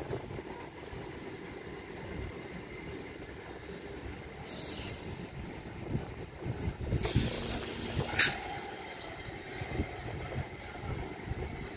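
Electric multiple-unit local train coaches rolling past, wheels rumbling and knocking on the rails. There are brief high-pitched wheel squeals about four and a half and seven seconds in, and a sharp clank about eight seconds in.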